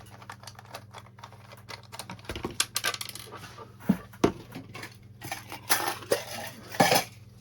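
Screwdriver clicking and scraping against tight screws in the plastic housing of a hand-held vacuum cleaner, with a few sharper knocks of hard plastic and metal.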